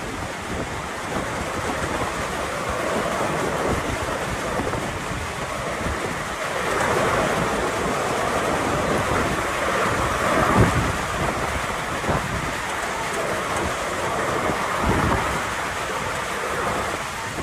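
Strong storm wind gusting with rain, with rumbling wind buffeting on the microphone; a gust swells about seven seconds in and peaks a few seconds later.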